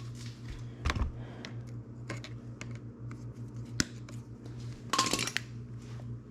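Scattered light metallic clicks and taps of hand tools and dirt-bike engine parts being handled, with a brief cluster of rattling clicks about five seconds in.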